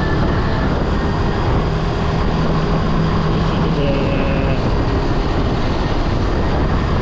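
Kawasaki W175's single-cylinder engine running at steady road speed, heard under heavy wind rush on the rider's helmet microphone.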